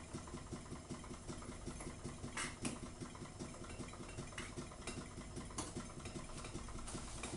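Small Ringbom free-piston Stirling engine running steadily with a fast pumping rhythm, driving a stepper-motor generator under an LED load on a turned-down flame. A few faint clicks sound over it.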